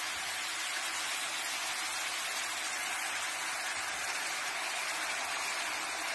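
Steady sizzling of food frying in hot butter with garlic in a pan, an even hiss with no breaks.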